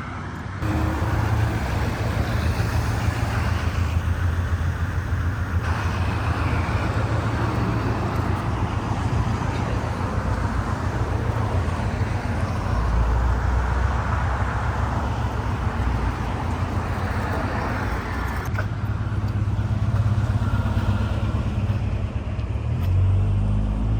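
City street traffic: cars driving past in a steady run of road noise and engine rumble.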